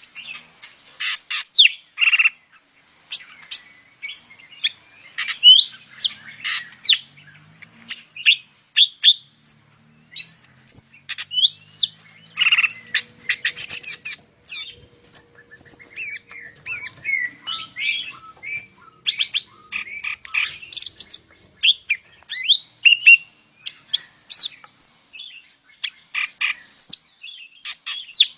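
Greater green leafbird (cucak ijo) of the Medan (Sumatran) type singing a fast, unbroken medley of chirps, rising and falling whistles and sharp notes: a full 'isian' song packed with varied phrases.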